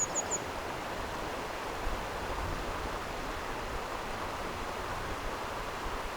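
Steady rush of flowing stream water. A few short, high bird chirps sound right at the start.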